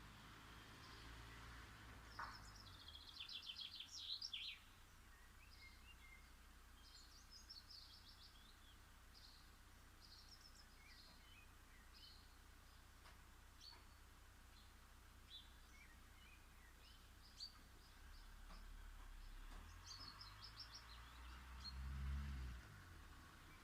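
Small songbirds chirping and twittering, faint, with a fast twittering run about three seconds in and another near the end. A low rumble swells briefly near the end.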